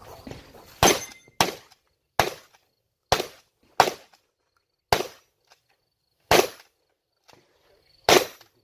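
Shotgun fired in a string of eight shots at uneven intervals, about half a second to a second and a half apart, each a sharp crack with a short decay.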